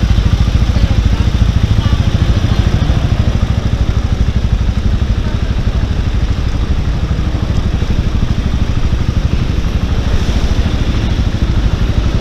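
Bristol Classic 400i motorcycle engine running at a steady speed on the move, with a fast low pulse under an even rush of wind and road noise.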